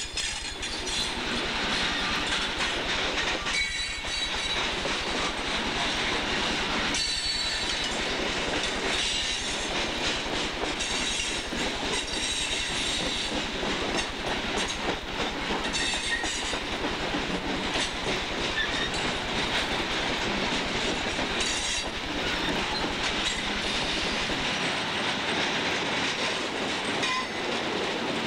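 Coal train's hopper cars rolling past close by: a steady rumble and clatter of steel wheels on the rail, with brief high-pitched wheel squeals now and then.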